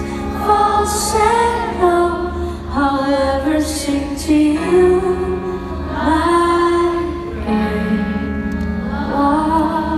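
Live pop music: a woman's voice singing long held notes that glide between pitches, over a band with steady bass.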